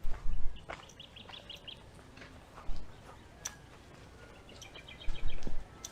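A small bird chirping in two quick runs of short, high notes, about a second in and again near the end. Bursts of low rumble at the start and near the end are louder than the bird.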